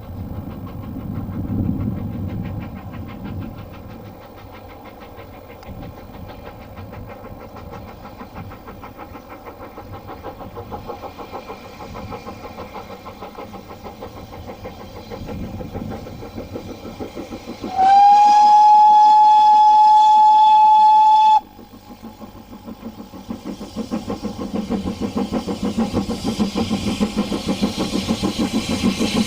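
Railway whistle blowing one steady note for about three and a half seconds, sliding up briefly at the start and cutting off sharply, over a steady train rumble. Afterwards a fast, even beat builds up and grows louder.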